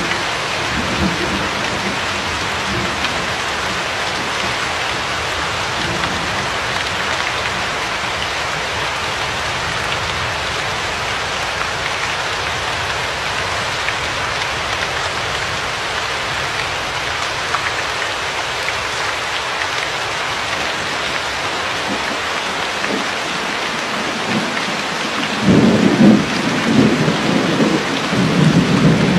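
Steady rain falling in an even hiss, with a low rolling rumble of thunder that swells up near the end.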